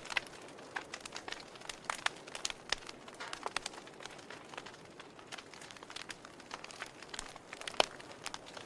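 Burning wood fire crackling: irregular sharp pops and snaps over a soft steady hiss, with one louder pop near the end.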